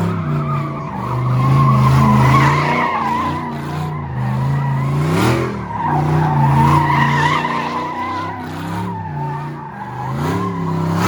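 A car drifting: the tyres squeal in a steady high screech while the engine revs rise and fall under sustained throttle. The revs dip sharply and climb again about five seconds in and once more near the end.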